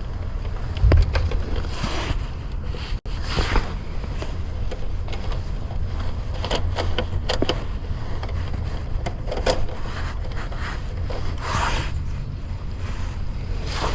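Steady low rumble with scattered scrapes and clicks of hands working on heat pump wiring and panels.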